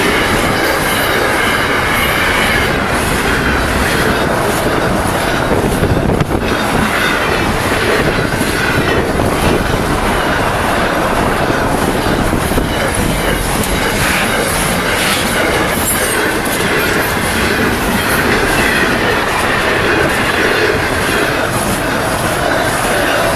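Train wagons rolling past at steady speed, wheels clacking over the rail joints, with a faint wavering wheel squeal.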